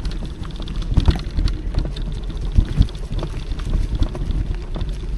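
Electric mountain bike riding over a rough trail: a steady low rumble of wind on the microphone and tyres, with irregular knocks and rattles from the bumps.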